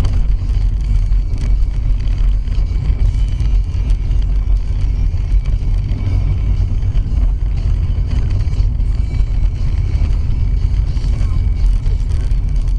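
Car driving, recorded on a dashcam: a steady, loud low rumble of road and wind noise.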